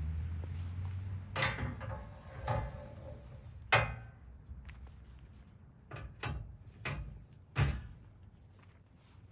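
A low rumble fades out in the first second. It is followed by a series of sharp clunks and knocks at irregular intervals, a second or so apart, each dying away quickly.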